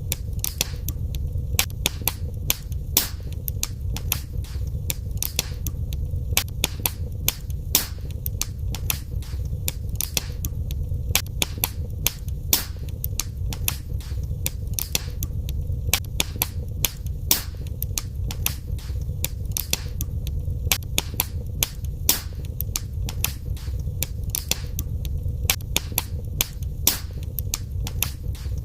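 Wood fire crackling in a fireplace: many sharp irregular pops and snaps, several a second, over a steady low rumble of the burning fire.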